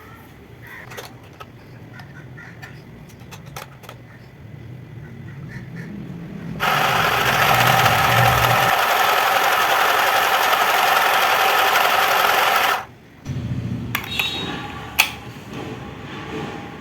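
Mini electric sewing machine running. A faint low hum gives way to about six seconds of loud, fast stitching that starts and stops abruptly, then the low hum returns with a few clicks.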